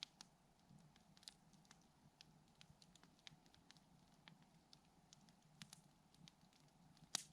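Wood campfire crackling faintly: scattered sharp snaps and pops at irregular intervals, with one louder pop near the end.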